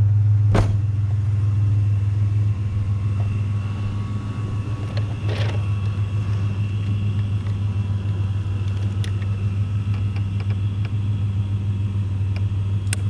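Truck engine running with a steady low hum, a sharp click about half a second in and a few lighter clicks and knocks later.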